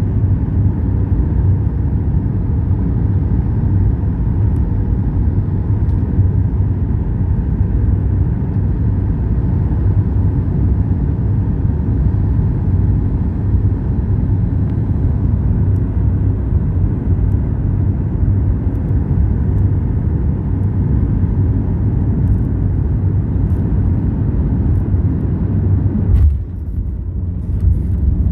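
Steady low rumble inside an airliner cabin, with a sharp knock near the end, after which the higher hiss drops away.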